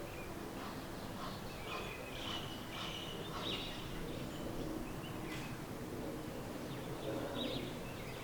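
Birds chirping in short high calls, loudest from about two to four seconds in, over a steady outdoor background hiss.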